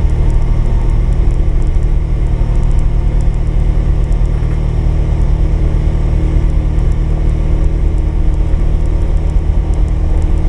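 Polaris 570 utility vehicle's engine running steadily under load while plowing snow, a constant low drone with no revving.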